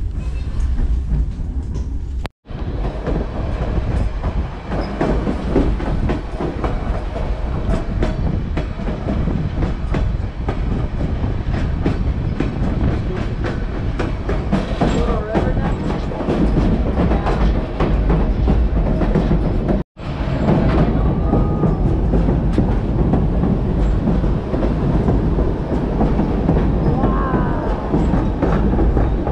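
White Pass & Yukon Route narrow-gauge passenger train rolling along the track: a steady rumble with the clickety-clack of the car's wheels over the rail joints. The sound drops out for an instant twice.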